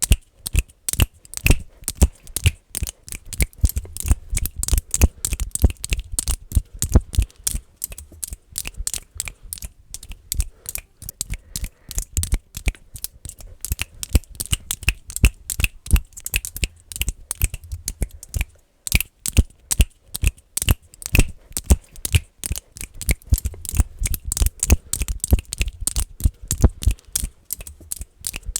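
Fast, dense finger clicking: sharp clicks in quick, irregular runs of several a second, many with a dull low thud under them, and a brief pause about two-thirds of the way through.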